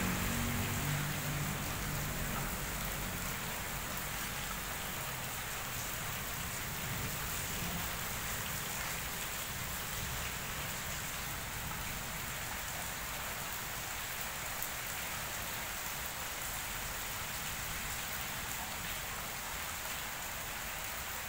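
Steady rain falling on wet paving, an even hiss throughout. A low rumble of thunder dies away in the first couple of seconds.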